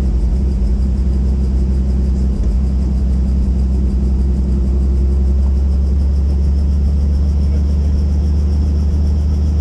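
Helicopter in flight: a loud, steady drone of engine and rotor, with a fast, even rotor beat and a thin high turbine whine.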